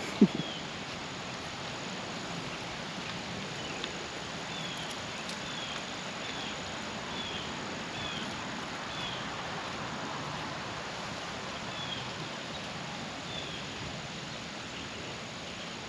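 Steady outdoor background noise with a bird repeatedly giving short, high, falling chirps in runs of several. There is a single sharp knock just after the start.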